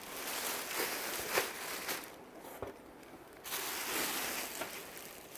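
Rustling and crinkling of a dress's fabric as it is handled and moved, in two spells: one for the first couple of seconds, another starting about halfway through.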